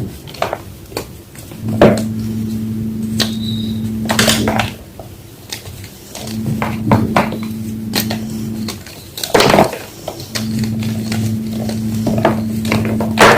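Homemade gym chalk block being crushed: scattered sharp crunches and crackles, loudest in a few clusters. A low steady hum starts and stops in stretches of a few seconds underneath.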